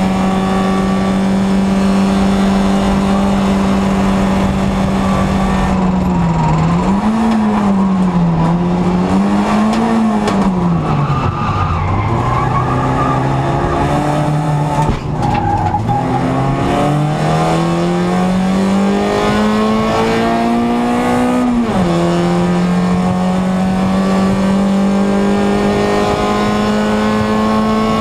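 Small racing car's engine heard from inside the cockpit, held at high revs at first. Its pitch then drops and rises several times through a series of corners, climbs under acceleration, and falls sharply at an upshift about three quarters of the way through before climbing again.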